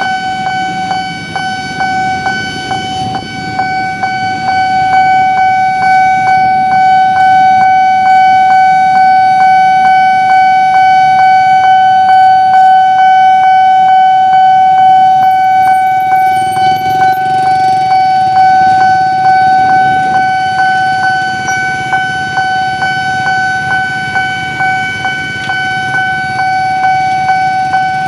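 Railway level-crossing warning alarm sounding: a steady high tone with a quick, regular ticking beat. Under it is the low rumble of a train passing the crossing.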